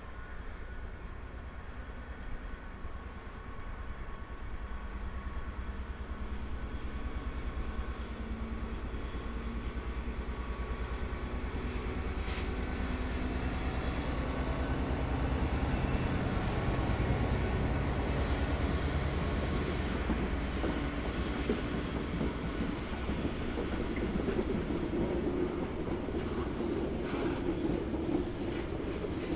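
Diesel freight train passing: the locomotive's engine hum grows louder over the first half, then the wagons roll by with wheel clatter and some high-pitched rail noise near the end.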